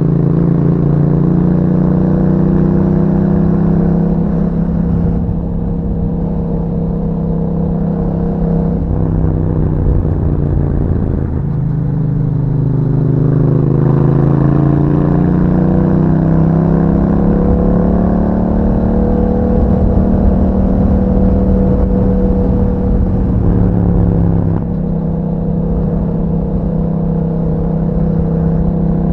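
Yamaha MT-07's parallel-twin engine breathing through an Akrapovic aftermarket exhaust while riding. The engine note dips a few times, climbs steadily through the middle and drops again near the end.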